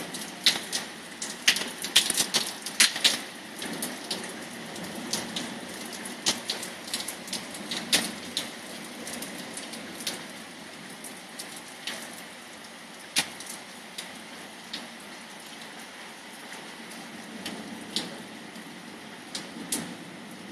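Heavy rain falling steadily, with large drops splashing close by onto a hard surface as sharp irregular ticks. The ticks come thick and fast for the first few seconds and thin out after about ten seconds.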